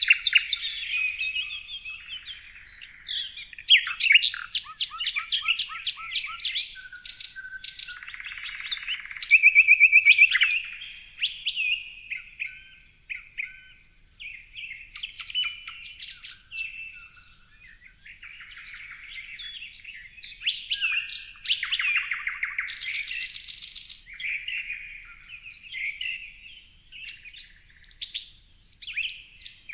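Several songbirds singing at once, with quick chirps, whistled phrases and fast rattling trills following one another without a break.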